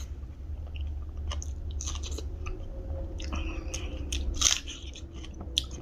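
A person biting and chewing food close to the microphone, with irregular crunches and small clicks, over a steady low hum.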